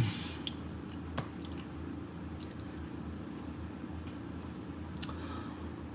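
A person chewing a bite of canned pineapple: faint wet squishing and a few soft mouth clicks, spaced irregularly.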